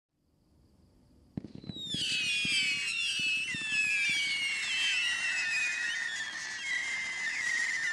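Brothers Fireworks Rabble Rouser 25-shot 500 g cake firing. A string of sharp launch thumps starts about a second and a half in, then many overlapping high whistles run on, each falling slowly in pitch.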